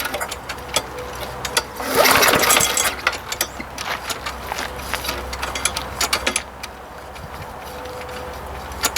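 Walk-behind lawn mower engine being pull-started by its recoil starter rope and cranking without catching. There is a loud pull about two seconds in, then irregular clicks and knocks. The no-start comes with spark that only sometimes appears, which the owner takes for a broken flywheel key.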